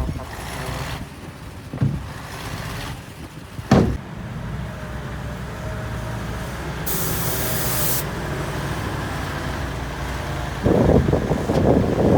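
Heavy diesel earthmoving machinery running steadily, with a few sharp knocks. About seven seconds in there is a one-second hiss of released air, like an air brake, and near the end a louder rattling stretch.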